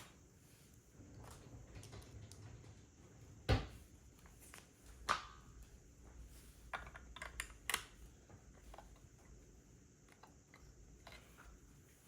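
Plastic Lego bricks being handled and pressed together: scattered sharp clicks and taps. The loudest comes about three and a half seconds in, another about five seconds in, and a quick run of clicks about seven seconds in.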